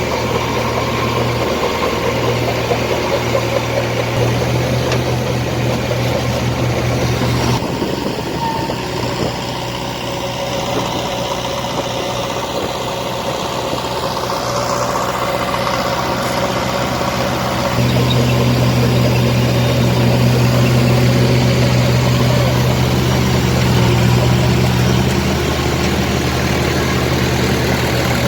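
Tractor engine running steadily at low speed, with a sudden change about 7.6 s in and louder running from about 18 s. A thin rising whine is heard midway.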